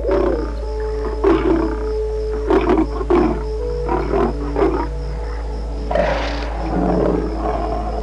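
A run of short animal calls, about five in a row, over steady background music.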